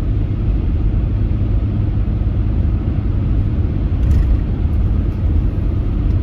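Steady low rumble of a car driving along the road, heard from inside the cabin: engine and tyre noise, with a faint tick about four seconds in.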